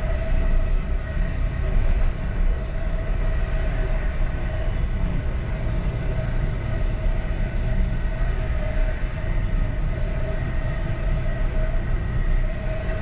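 Passenger train running steadily, heard from inside its last car: a continuous low rumble of wheels on rail with a steady tone above it.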